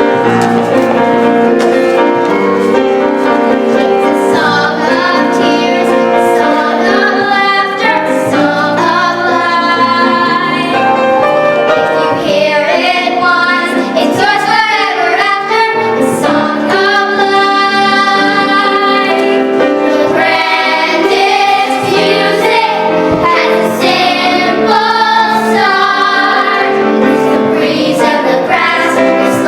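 Children's voices singing a musical-theatre song, held notes with vibrato.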